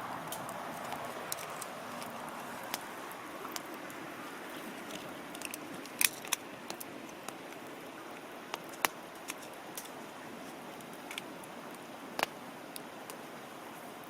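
Wood campfire crackling: irregular sharp pops and snaps over a steady soft hiss, with a few louder snaps in the middle and near the end.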